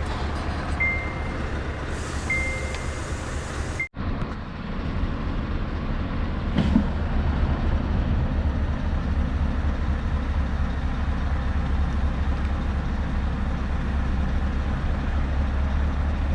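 Scania S650 V8 truck engine idling steadily. For the first four seconds a high warning beep sounds about every second and a half, the low-air-pressure warning while the air is down. After a brief break only the engine runs on.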